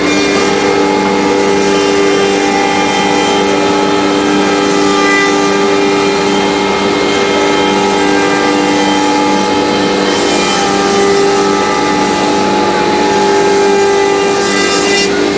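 CNC router running steadily, a whine of several steady pitches held over a haze of machine noise.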